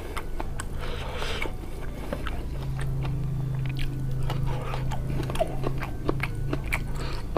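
A person biting into and chewing sambal-coated food close to the microphone: wet chewing with short crunching clicks, over a low steady hum.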